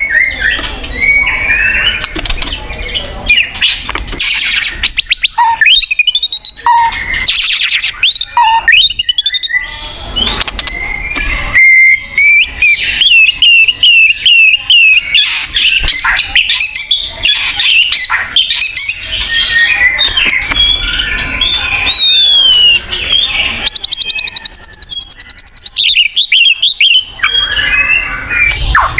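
White-rumped shama (murai batu) singing almost without pause: a long, varied song of loud whistles and pitch sweeps, fast trills and harsh chattering notes.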